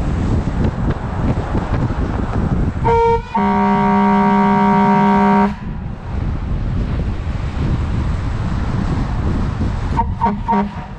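Vehicle horn sounding over motorcycle wind and road noise: a short toot about three seconds in, then a long blast of about two seconds, and two quick short toots near the end.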